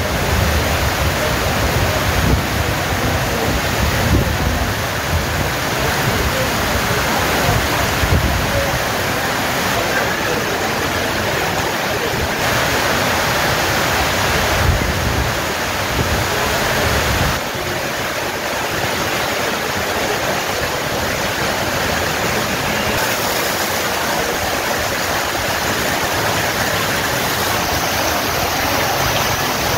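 Heavy rain falling steadily as a dense, even hiss, with intermittent low rumbles during the first several seconds.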